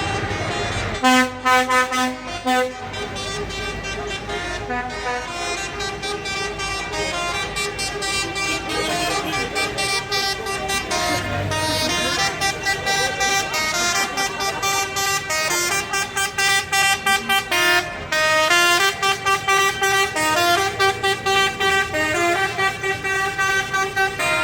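A tune played note by note on a reedy, horn-like instrument, with quick stepped changes of pitch and short gaps between phrases.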